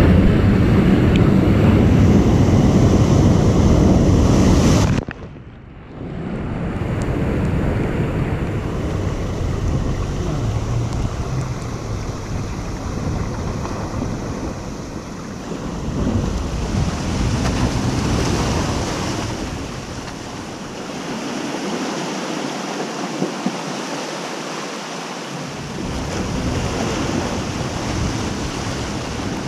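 Ocean waves breaking and washing up, with wind buffeting the microphone. It is loudest for the first five seconds, drops suddenly, then goes on in slow swells of surf.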